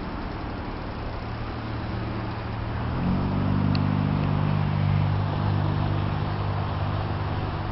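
A motor vehicle's engine running in the street, growing louder about three seconds in and then holding steady, over a constant hiss of storm wind.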